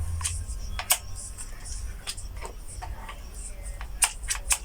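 A series of about eight sharp, irregular clicks and taps over a steady low hum.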